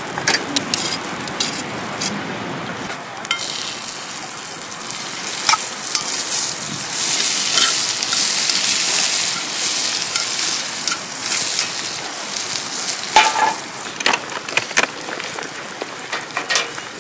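Steak frying and sizzling, with scattered sharp pops; the sizzle swells loudest for several seconds in the middle, then eases.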